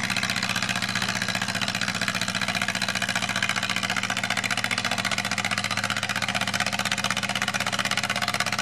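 Antique farm tractor engine running steadily under heavy load as it drags a weighted pulling sled, a fast, even beat.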